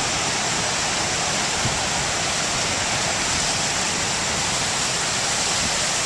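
Rough, storm-driven surf breaking on the beach, a steady rushing noise with no distinct breaks in it, mixed with tropical-storm wind.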